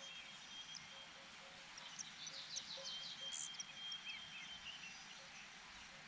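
Faint high bird chirps: a quick run of short chirps about two seconds in, then scattered single chirps, with a thin steady high tone running for a second or two, over quiet outdoor background hiss.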